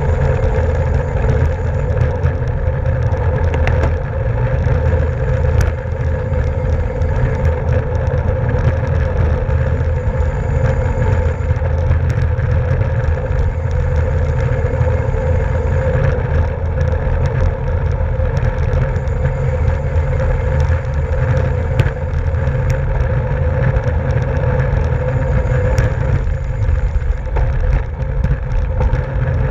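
Wind buffeting the microphone of a camera on a racing bicycle at speed, a loud steady rumble, with a steady hum from the bike's tyres and drivetrain and a few faint clicks.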